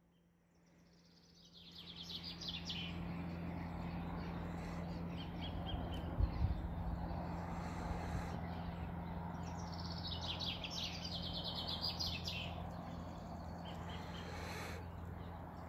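Birds singing in the bush, with two bursts of rapid, high trilled song about two seconds in and again around ten to twelve seconds in, and shorter calls between. A steady low hum and a general outdoor hiss run underneath, and there is a brief low thump about six seconds in.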